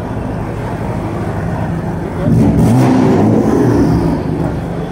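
BMW sedan's engine running as the car pulls away at low speed, getting louder with a burst of revs a little over two seconds in.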